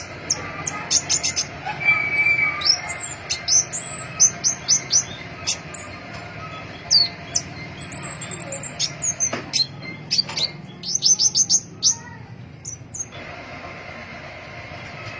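Pentis pelangi flowerpecker calling: quick runs of short, thin, high-pitched chirps, many of them falling in pitch, over a steady background hiss. The chirping stops near the end.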